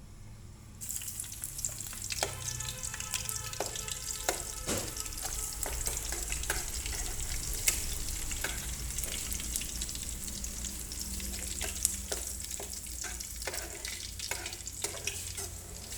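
Coconut palm weevil larvae (coconut grubs) frying in hot oil in a pan. A steady sizzle starts about a second in, with many sharp crackles throughout.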